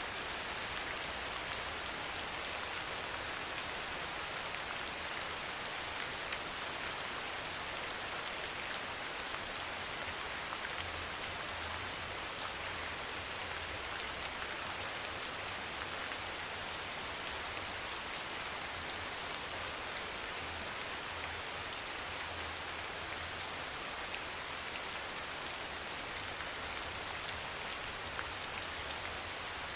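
Steady, even rain falling, with scattered faint ticks of individual drops.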